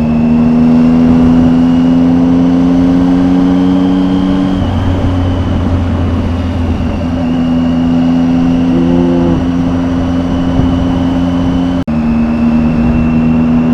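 Triumph motorcycle engine running on the road, its note slowly rising, over wind noise muffled by a closed helmet visor. About four and a half seconds in the note drops away for a couple of seconds, then comes back steady, and the sound cuts out for an instant near the end.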